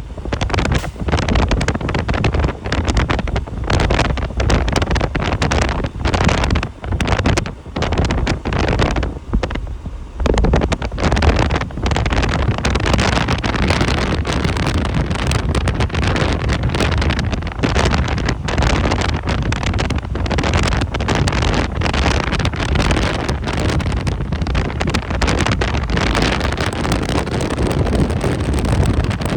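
Wind buffeting the microphone with a heavy low rumble, gusty and choppy at first, then steadier from about ten seconds in.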